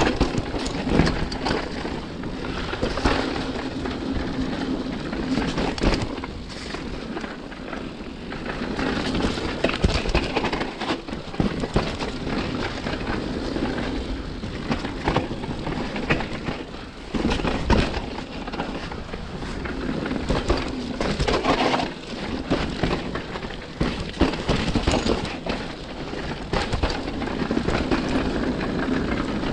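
Mountain bike ridden down a rough dirt trail: a steady rush of wind and tyre noise, broken by many irregular knocks and rattles as the bike hits bumps.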